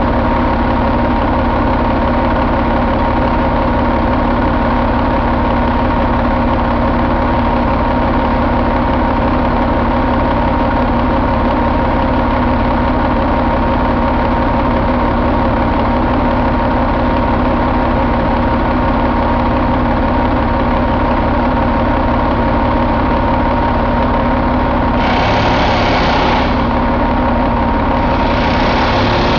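Caterpillar 3406E 14.6-litre inline-six diesel engine idling steadily. Near the end a brighter, harsher noise joins it twice, briefly.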